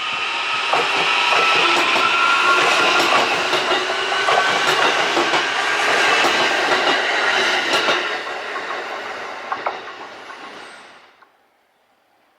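JR E131 series electric train running past, its wheels clicking over the rail joints with a steady ringing hum. The sound fades away about eleven seconds in.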